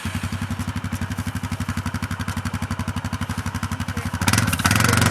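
ATV engine running at an even, pulsing idle, then revving louder about four seconds in as the rider backs the quad up.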